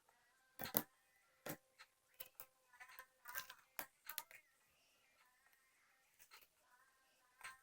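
Slime being pressed and squished, giving irregular sharp pops and clicks separated by near quiet, the loudest about a second in.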